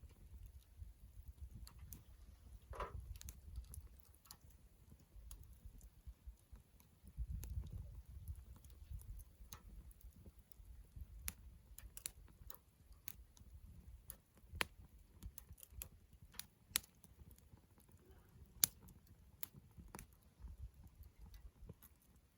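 Wood campfire crackling: sparse, irregular sharp pops over a low rumble, with a few louder pops in the second half.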